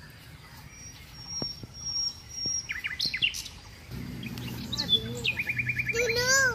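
Small birds chirping outdoors: a few quick chirps about halfway through, then a fast high trill near the end. A low steady hum comes in about four seconds in.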